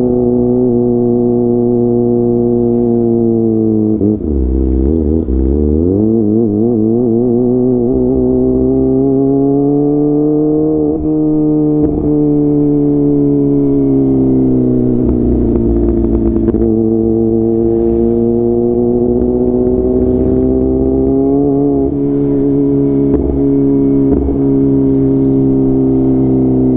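Kawasaki ZX-25R inline-four engine running through a DX Generation GPR full-system aftermarket exhaust while riding at moderate, steady revs. About four seconds in the revs drop and climb back, and later they ease down and slowly rise again.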